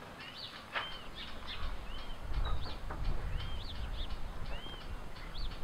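Small birds chirping over and over in short rising-and-falling notes, with a single knock about a second in and a low rumble swelling through the middle.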